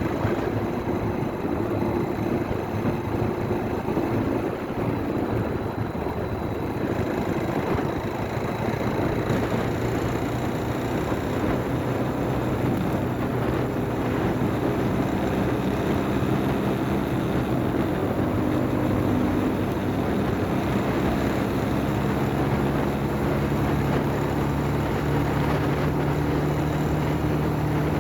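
Motorcycle engine running while riding, its note rising and falling with speed, over steady wind and road noise.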